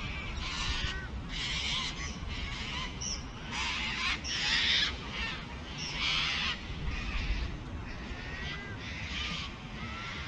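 Birds calling: a string of harsh squawks, about one a second, with a few short chirps in between, over a low rumble of wind on the microphone.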